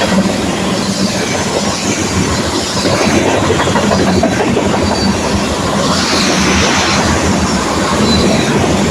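Long freight train of tank wagons rolling past, its wheels clattering steadily over the rail joints, with a few faint, brief high-pitched squeals.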